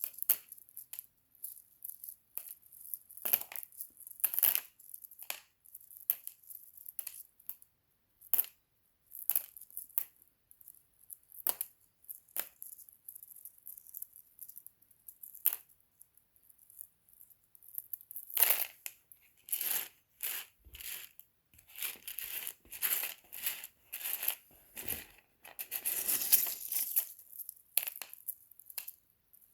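Small rough opal chips clicking and clinking against one another as they are moved about by hand: scattered single clicks at first, then a busier spell of rattling clinks about two-thirds of the way through.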